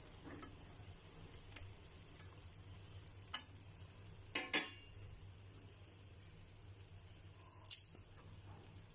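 A metal utensil clinking against cookware, a few scattered taps with the loudest pair about four and a half seconds in, over a low steady hum.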